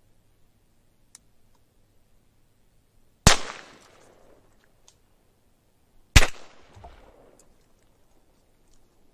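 Two shotgun shots about three seconds apart, each sharp crack trailing off in a short echo.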